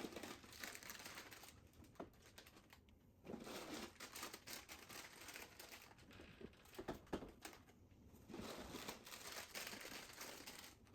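Faint crinkling of small plastic chip bags being handled and hung on a merchandise strip's hooks, in several short patches with a few light clicks.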